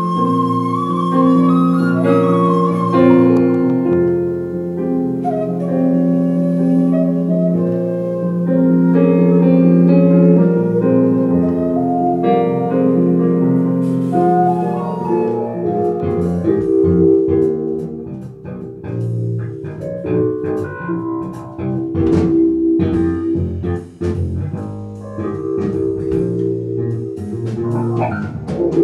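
Live fusion band music: a sliding wind-instrument note falls away at the start over held keyboard and guitar chords, then the drum kit and bass come in about halfway through and the band plays on with a steady beat.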